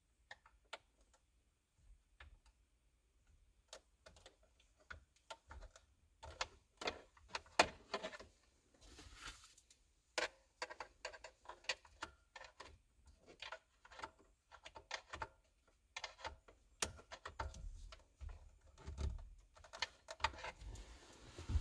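Hand tools clicking and tapping on metal, irregular at first, then in quick runs of clicks for a few seconds about a third of the way in.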